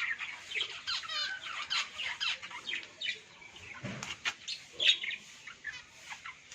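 Small cage finches, zebra finches among them, chirping in a busy stream of short, high calls, with one lower call about four seconds in.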